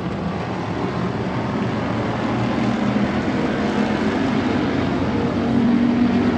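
Dirt-track stock car engines running hard during a race, a steady loud drone that climbs slightly in pitch twice.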